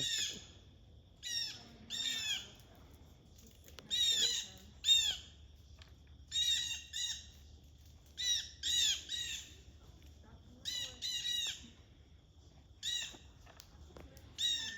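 Young blue jay giving harsh, squawking calls, mostly in pairs about every two seconds, as it learns to call.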